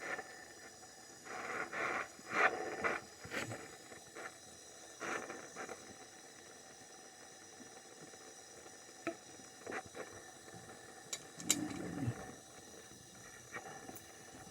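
Intermittent scraping, knocking and clinking of plumbing pipe and tools being handled, with a burst of clattering about two seconds in and a few sharp ticks later on.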